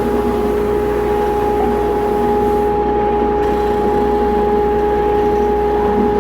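Stationary woodworking machine running steadily: a constant motor whine over a rush of noise, unchanging throughout.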